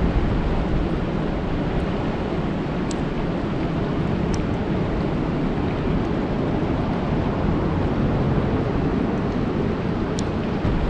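Steady rain falling on a lake's surface, a constant dense hiss with a deep rumbling undertone and a few faint, sharp ticks of single drops.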